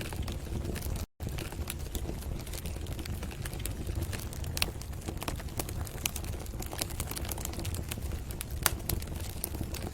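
Wood fire crackling in a fireplace: irregular sharp pops and snaps over a low steady rumble, cutting out for an instant about a second in.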